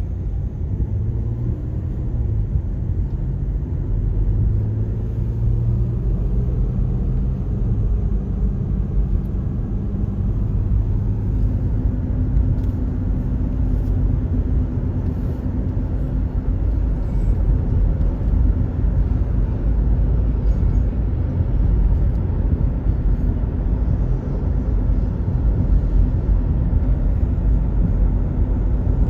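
CSX freight train rumbling past: diesel locomotive engines droning low, then a steady rumble of rolling stock on the rails.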